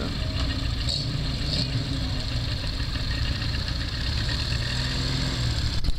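Classic Ford Mustang fastback's engine running with a low, steady rumble as the car rolls slowly forward, with no revving.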